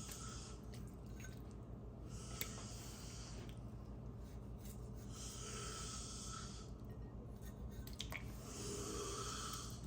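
Raw chicken breast being trimmed of fat with a knife: faint wet squishing and slicing in about four short stretches, over a low steady hum.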